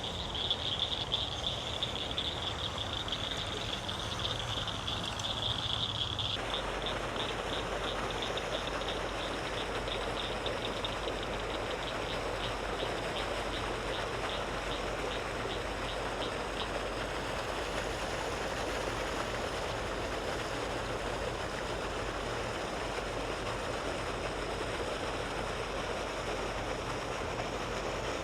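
Evening outdoor ambience: a steady high insect trill, which changes abruptly about six seconds in to an evenly pulsing insect chirp that fades out about halfway through, over a steady rushing noise.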